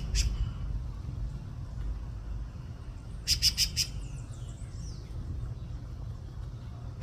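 A songbird calling: a single short note just after the start, then a quick run of four short sharp notes about three seconds in, followed by a fainter sliding note.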